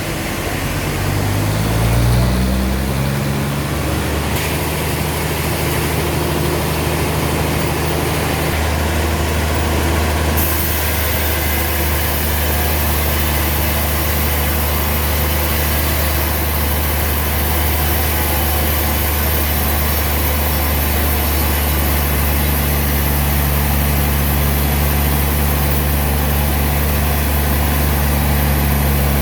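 Heavy engine speeding up over the first few seconds, then running steadily at a constant speed.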